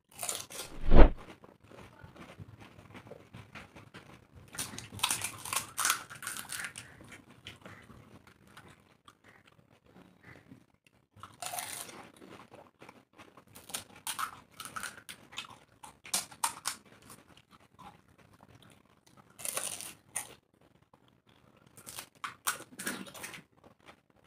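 Crisp pani puri shells cracking and crunching as two people bite and chew them whole, with wet chewing, coming in bursts with short pauses between. A loud thump about a second in.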